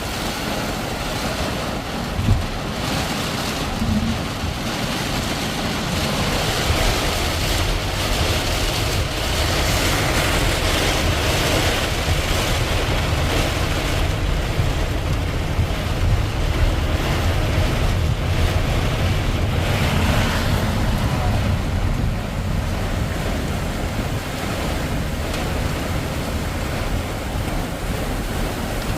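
Heavy rain pouring down steadily, a dense even rush of water with a low rumble underneath.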